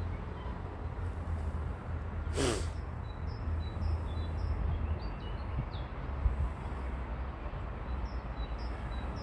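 Small birds chirping in short high notes, scattered through the second half, over a steady low rumble. About two and a half seconds in there is one brief breathy rush.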